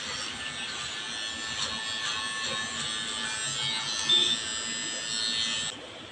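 Electric hair trimmer running with a steady buzz as it cuts hair. It stops near the end.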